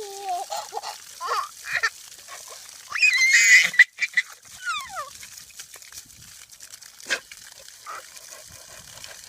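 An animal's short calls and squeals, a loud one about three seconds in, and one sliding down in pitch near five seconds, then a sharp click.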